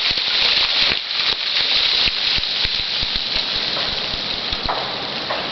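Freezing rain falling steadily on ice-coated trees and snow: a dense hiss with many scattered sharp ticks of drops and ice bits striking.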